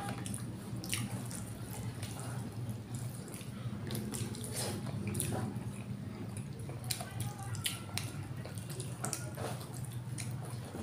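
Wet chewing and lip-smacking of people eating with their hands, many short smacks and clicks at an uneven pace, over a steady low hum.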